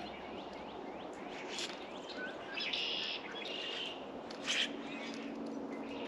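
Small birds chirping at a feeder in a run of short falling notes, with a longer buzzy call about three seconds in and a sharp tap about four and a half seconds in. A low steady hum sits under the second half.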